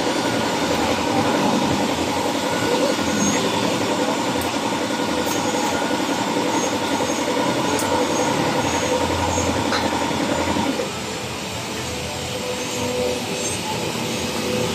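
Steady vehicle running noise, which drops somewhat about eleven seconds in.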